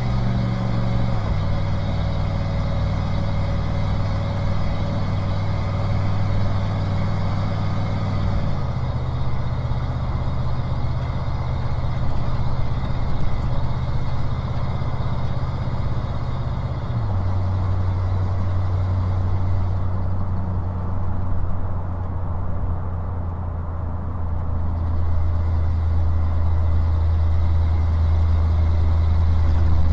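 1995 Ford Bronco engine and road noise heard from inside the cab while driving: a steady drone whose pitch drops in three steps, about a second in, about eight seconds in and about seventeen seconds in.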